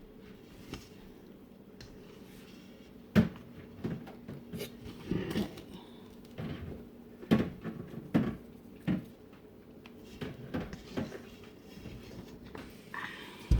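Scattered knocks, taps and light clatter of kitchen utensils being handled on a countertop while bread dough is cut and moved. One sharp knock about three seconds in is the loudest, with a faint steady hum underneath.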